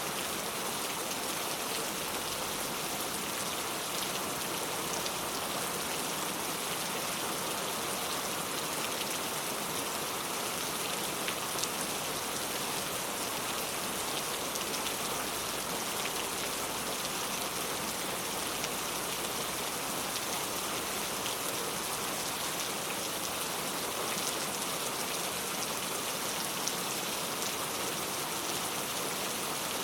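Heavy rain falling steadily: a dense, even hiss with scattered sharper drop hits through it.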